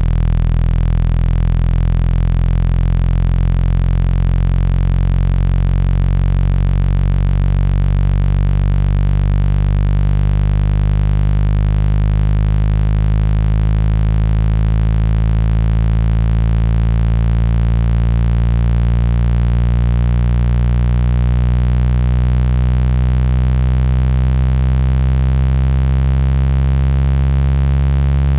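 Steady synthesized low tone, the 165 Hz speaker-cleaning frequency played to vibrate water and dust out of a phone speaker grille. It is a loud, constant buzzing hum with many overtones, the higher ones slowly shifting.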